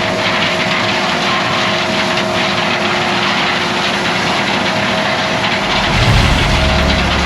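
Heavy vehicle engines running steadily, with a deeper low rumble joining near the end.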